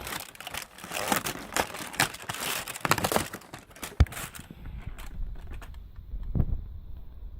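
Packaging crinkling and tearing as an advent calendar door and its wrapped gift are opened by hand, dense crackling for the first four seconds or so. It then turns quieter, with a couple of soft thumps.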